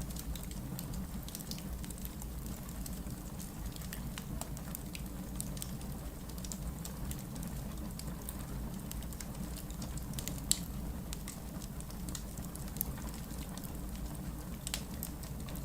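Wood logs burning in a fireplace, crackling with scattered small snaps over a steady low rumble, with one sharper pop about ten seconds in.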